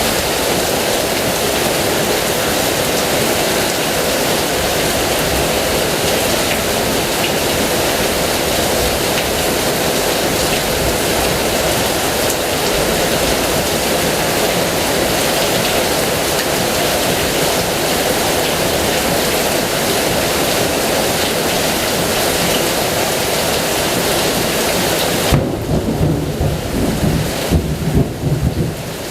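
Heavy rain falling with a steady, dense hiss. Near the end the hiss suddenly thins and a low, uneven rumble of thunder rolls in, swelling and fading several times.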